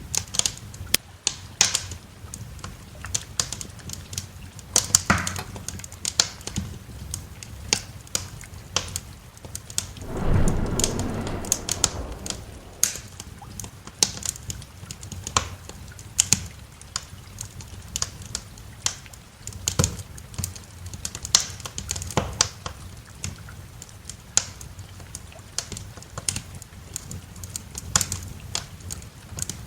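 Wood fire crackling in a fireplace, with irregular sharp pops and snaps throughout. About ten seconds in, a low roll of thunder swells up for a couple of seconds and fades.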